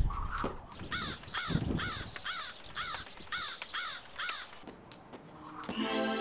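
A quick run of about nine crow caws, evenly spaced, each rising and falling in pitch, lasting from about a second in to about four and a half seconds. Under them come light slaps of a skipping rope striking the floor, and music starts near the end.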